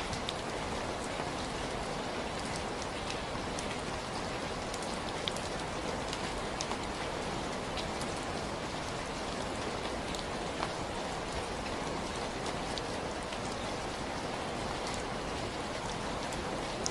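Steady rainfall: an even hiss of rain with scattered individual drops ticking on a hard surface.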